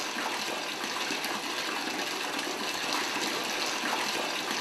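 Tap water running steadily and hard from a faucet, as a bath is run for washing a cat.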